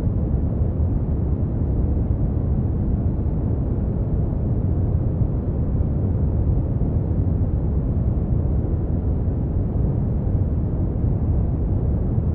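Brown noise: a steady, deep rumbling hiss with most of its energy in the low end and little treble, unchanging throughout.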